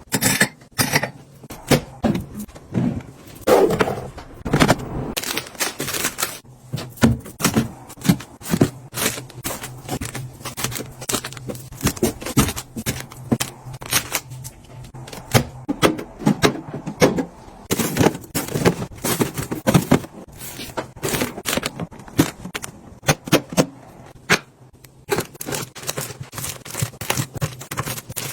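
Snack packaging and containers being handled: a busy, irregular run of clicks, taps and plastic crinkling as snacks are unpacked and put away.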